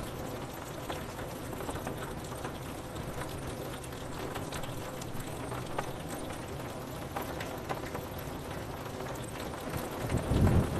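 Steady rain pattering on window glass, with scattered drop ticks. A louder, deep thunder rumble swells near the end.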